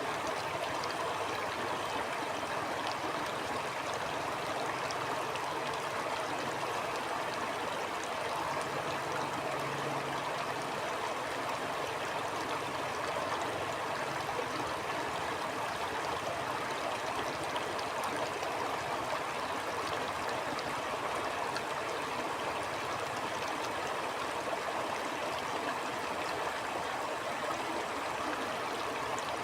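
Stream flowing steadily, a continuous even rush of water.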